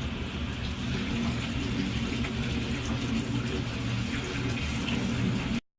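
Steady rushing water noise with a low rumble underneath, cutting off abruptly near the end.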